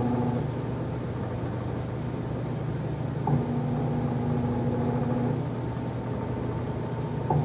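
Magic Chef 1.6 cu ft portable washing machine in its spin cycle: a steady motor hum whose tone fades and comes back twice, with a short click each time it returns, about three seconds in and near the end.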